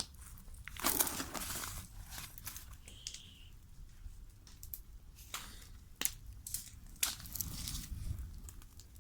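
Old papers being handled, rustling and crumpling in the hands, with irregular bursts of crinkling and a few sharp snaps.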